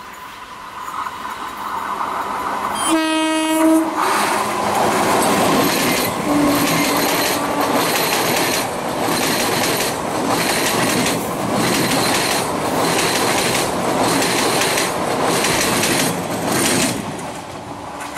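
Electric multiple unit suburban train sounding one short horn blast about three seconds in, then running past close by, its wheels clattering over the rail joints in a steady rhythm until the sound drops away near the end.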